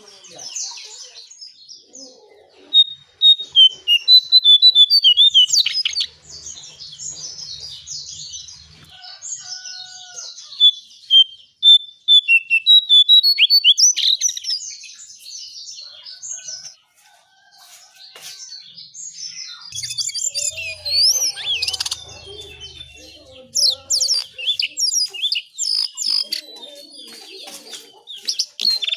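Lesser shortwing (cingcoang coklat) singing: rapid, high twittering phrases in several loud stretches, with quieter chirps between them.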